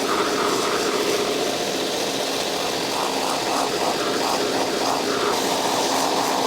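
Grinder running steadily, grinding old adhesive off a boot's rubber midsole; the grinding sound wavers up and down as the sole is worked against it.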